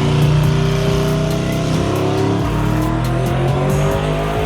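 A car engine running, its pitch rising slowly, over background music with held bass notes.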